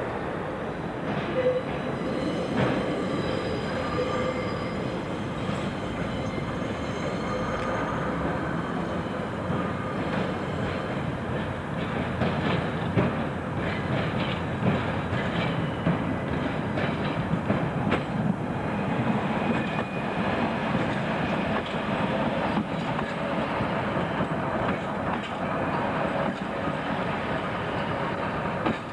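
Passenger trains moving through a station: a steady rumble with the wheels clicking again and again over rail joints and pointwork.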